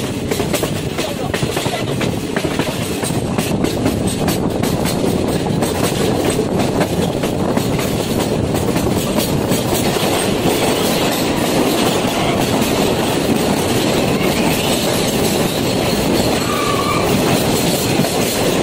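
Passenger train running at speed, heard from an open door: a loud, steady rumble of wheels on rails with rapid clattering over the track, and a run through a rock tunnel that closes in around the sound.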